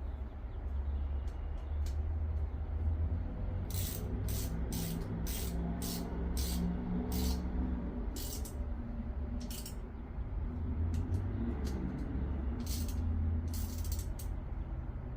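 A socket ratchet clicking in quick back-strokes: a run of about a dozen strokes over four seconds, then a few more near the end, over a steady low hum.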